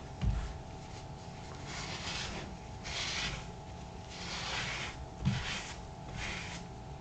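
Scrubbing on a leather boot's outsole during cleaning: about five separate rasping strokes, with two dull low knocks, one just after the start and one about five seconds in.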